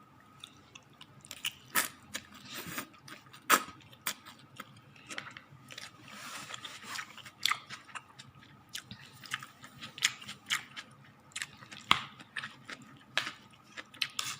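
A person chewing and crunching mouthfuls of fresh sweet potato leaf salad (talbos ng kamote) with onion, garlic and tomato, in irregular crisp crunches and mouth clicks.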